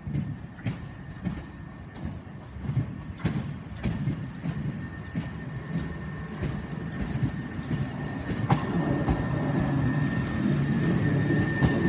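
Southern Class 377 Electrostar electric multiple unit arriving at the platform. Its low rumble grows steadily louder as it draws near and passes close, with scattered knocks. A steady high-pitched whine joins about nine seconds in.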